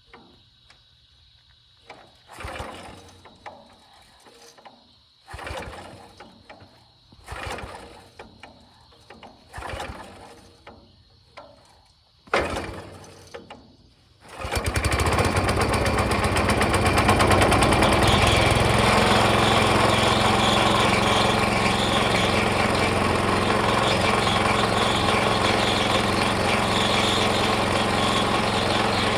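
Small gasoline engine on a trommel wash plant being pull-started: about six pulls of the recoil starter, roughly two seconds apart. About 14 seconds in it catches and runs steadily and loudly, driving the water pump.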